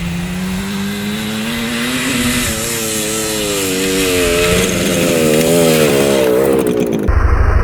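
A 1975 Yamaha RD200's two-stroke twin engine running, its pitch rising and falling several times as the engine speed changes. Near the end it cuts abruptly to a steady, lower idle.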